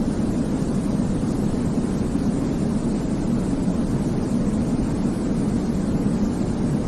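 Steady, deep-toned white noise for baby sleep, with most of its energy low and a softer hiss above; it does not change.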